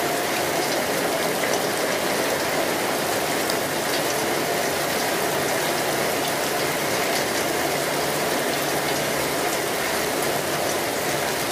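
Steady rain falling: an even, unbroken hiss of rain with many small drop ticks scattered through it.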